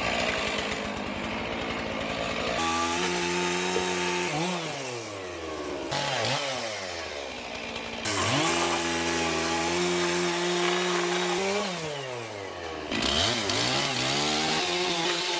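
Two-stroke chainsaw running at high revs as it cuts wood. Its pitch sags under load and climbs again several times, in a few short clips joined by abrupt cuts.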